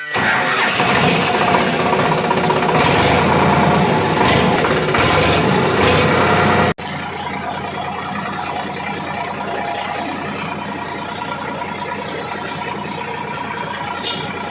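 Sonalika 55 RX tractor's diesel engine running under load, loud at first, then dropping abruptly to a quieter, steady run about seven seconds in.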